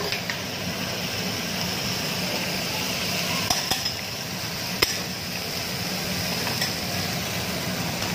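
Salmon, meat and squid sizzling on a hot flat steel teppanyaki griddle, a steady frying hiss. A few sharp clicks come through it in the middle.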